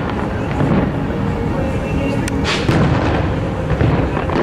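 Fireworks show barrage: aerial shell bursts booming rapidly one over another, with a burst of sharp crackles about halfway through.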